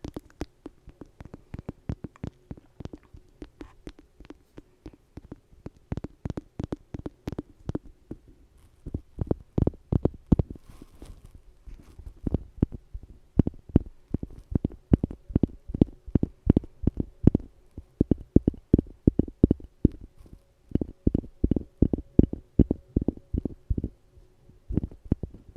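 Rapid tapping with low, soft thumps in quick runs of several a second, growing louder and busier about nine seconds in.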